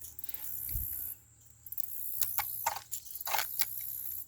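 High insect buzzing, broken by short gaps, with a quick run of clicks and rattles in the second half.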